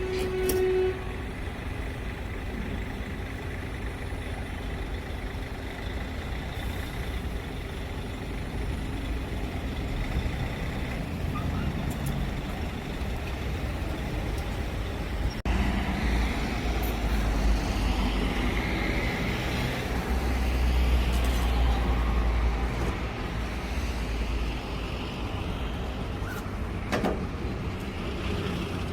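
Steady low rumble of a motor vehicle running, which grows louder after an abrupt change about halfway through.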